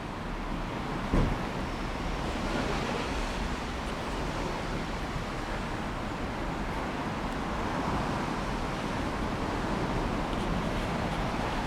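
Steady outdoor wind noise, an even rushing hiss, with one short louder sound about a second in.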